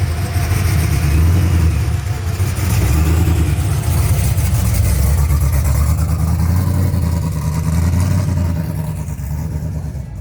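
A classic pickup truck's engine running loudly with a deep, throbbing low rumble, easing off a little near the end.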